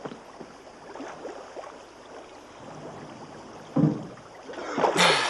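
Water moving in a full bathtub, with a loud splash about four seconds in and a rush of water near the end, as of someone coming up out of the bath.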